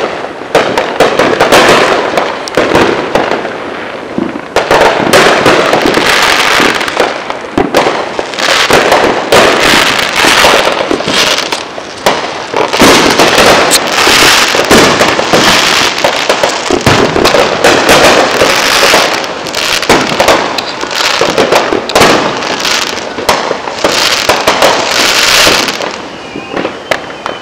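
Many fireworks and firecrackers going off at once: a dense, continuous run of bangs and crackling that eases briefly a couple of times and thins out near the end.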